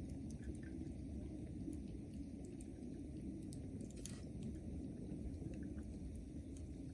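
Wood bonfire burning with a steady low rumble and scattered small crackles and pops, one sharper pop about four seconds in.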